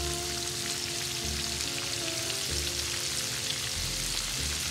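Batter-coated oysters deep-frying in a pan of hot oil: a dense, steady crackling sizzle, with background music underneath.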